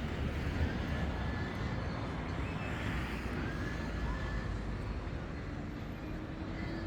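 A road or rail vehicle running close by with a low rumble. From about five seconds in, a steady hum slowly rises in pitch, as of a motor picking up speed.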